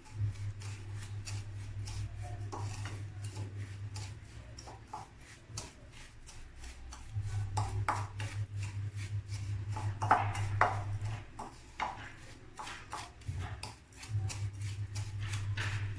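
Crushed biscuits and melted butter being mixed in a bowl: light clicks and scraping of a utensil against the bowl, over a low steady hum that stops and starts.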